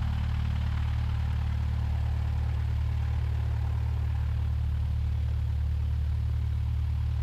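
Cessna 172's four-cylinder Lycoming O-320 engine running steadily at low taxi power, a constant low drone.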